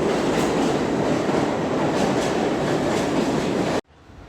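Train running on rails: a steady rumble with regular clicks of the wheels over rail joints. It cuts off abruptly near the end, leaving a much quieter background.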